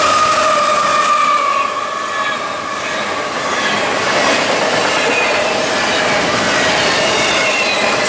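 Train rolling past, its steel wheels squealing against the rails in several held, high tones over a steady rolling noise.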